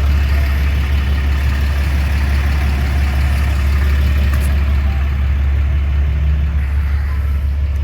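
Ram 3500 dually pickup's diesel engine idling: a steady low rumble.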